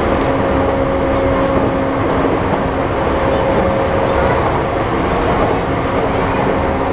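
Interior running noise of a JR East E235-1000 series EMU with Mitsubishi full-SiC VVVF inverters at speed: a steady rumble of wheels on rail under a level, unchanging hum from the drive. The train is cruising at a steady speed.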